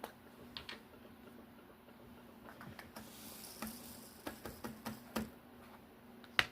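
Small light clicks and taps from diamond painting work, a drill pen and resin drills handled on the canvas and tray, scattered irregularly with one sharper click near the end.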